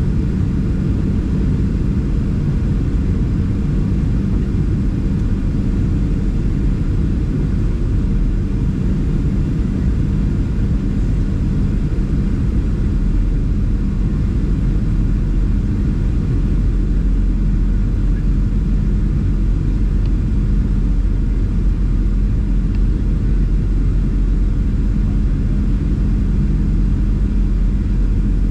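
Steady cabin rumble of a Boeing 737-700, its CFM56-7B engines and airflow heard from a passenger seat, with a constant low hum.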